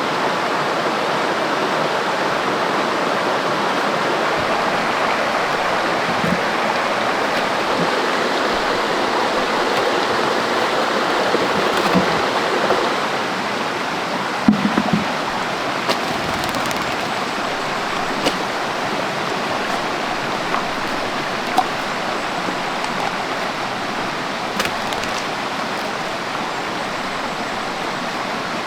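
Steady rushing noise like running water, with a few scattered knocks and clicks.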